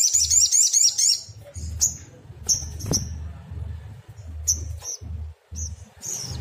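Sunbird song: a fast, high twittering trill in the first second, then a string of short, high chirps at irregular intervals, over a low, on-and-off hum.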